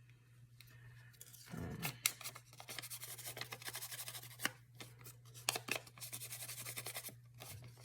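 Scissors cutting paper in quick runs of snips, with paper rustling and a few sharp clicks, over a steady low hum.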